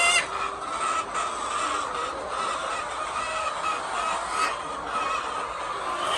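A flock of chickens clucking and calling over a steady din.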